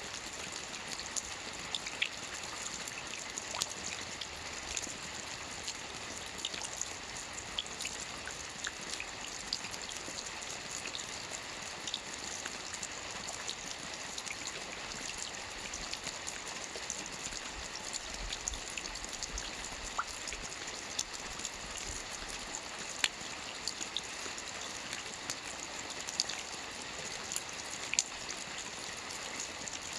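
Steady rain falling on a lake's surface: an even hiss with many separate drop ticks scattered through it.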